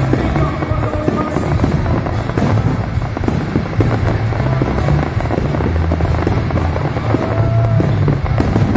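Fireworks display: aerial shells bursting and crackling in quick succession, over loud music.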